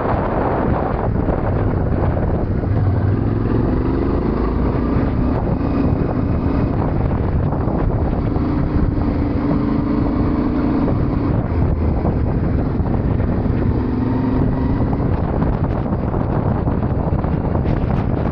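Yamaha Ténéré 700 parallel-twin engine running under way, its pitch rising and holding a few times as the bike accelerates, under heavy wind buffeting on the microphone.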